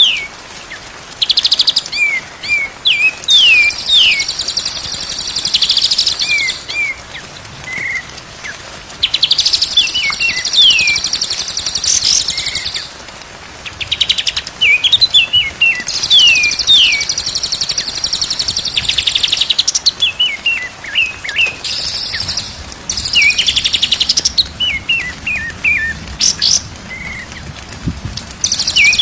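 White-rumped shama (murai batu) singing loudly, alternating harsh buzzing rattles of a second or two with quick runs of sharp, down-slurred whistled notes, over and over.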